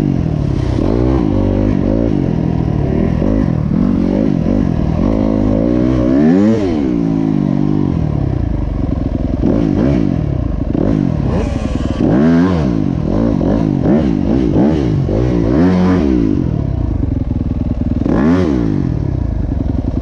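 Motocross bike engine revving hard and dropping back over and over, its pitch climbing and falling every second or two as it accelerates and eases off around the track, with some clatter.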